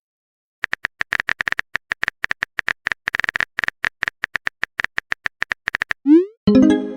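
Phone-keyboard typing sound effect: a fast run of short clicks for several seconds. Near the end comes a quick rising swoop and then a pitched message chime, as of a text being sent.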